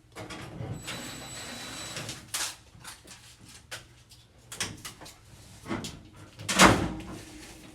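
Knocks, bumps and scraping of hardware being handled and fitted during a repair, with a short hissing whir about a second in and the loudest thud near the end.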